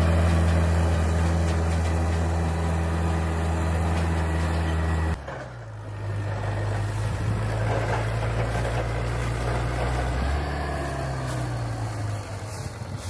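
Engine of a walking tractor (power tiller) running steadily. About five seconds in, the sound cuts abruptly to another steadily running engine.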